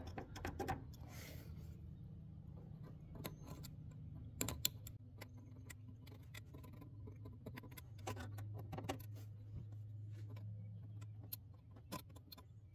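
Faint, scattered clicks and scrapes of an X-Acto knife blade worked along the splines of a wiper pivot shaft, clearing out aluminum shavings stripped from the wiper arm. The packed debris had let the arm slip on its shaft. The sharpest click comes about four and a half seconds in.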